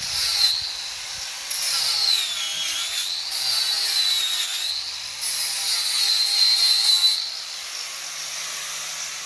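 Angle grinder grinding metal, its motor whine dipping and recovering over and over as the disc is pressed onto the work and eased off.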